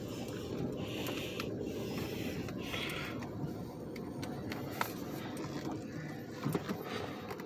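Car cabin noise while driving: a steady low rumble of road and engine noise, with a few light clicks and rattles. The driver says soon after that the car needs a new wheel bearing.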